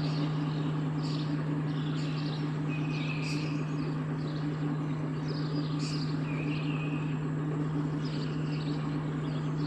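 Narrowboat engine running steadily at cruising speed, a low even hum, with birds chirping over it several times.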